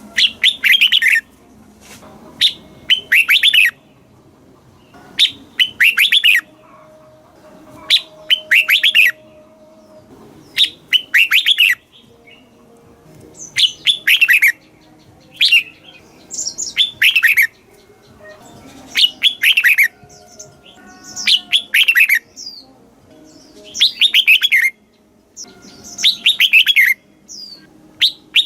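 Red-whiskered bulbul singing: short, bright whistled phrases repeated about every two seconds, some coming in quick pairs.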